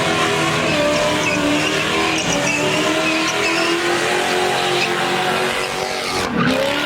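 Car engine held at high revs while its tyres squeal, as a car drifts on the pavement. The engine pitch holds fairly steady, then dips sharply and climbs back about six seconds in.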